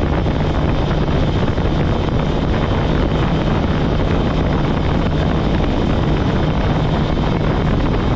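Kawasaki ZX-10R inline-four engine running at a steady cruising pace, its engine note held steady, with wind rushing over the microphone.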